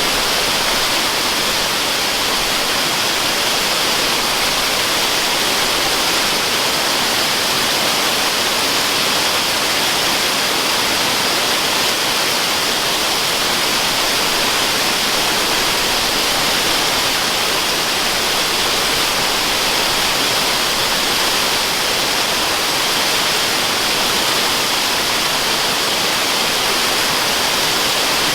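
Waterfall rushing, used as white noise: a steady, unbroken hiss, brightest in the upper-middle range and thin in the bass.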